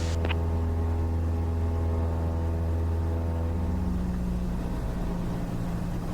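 Cessna 172's four-cylinder piston engine and propeller running steadily in cruise flight, with a steady low drone; about four seconds in, the engine note changes as the power setting shifts.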